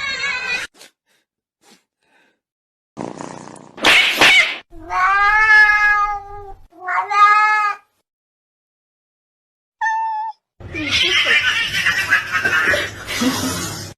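A domestic cat yowling and meowing: a harsh burst, then two long, drawn-out meows, a short high note, and a long, harsh, noisy yowl near the end, with silent pauses between.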